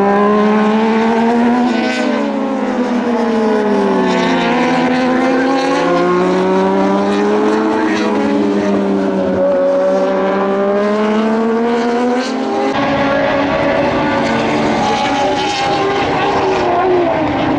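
Several Moto2 race bikes' Triumph 765 cc three-cylinder engines running hard past the grandstand, overlapping one another. Their notes repeatedly fall and rise as the riders shift gears.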